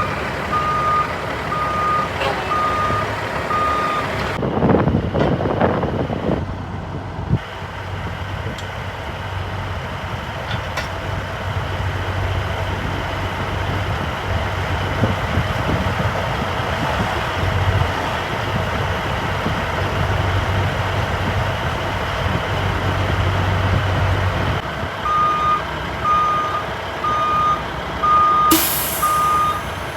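A tow truck's reversing alarm beeps about twice a second, stops after a few seconds, then starts again near the end. In between, the truck's engine runs steadily. Near the end there is a short burst of air-brake hiss.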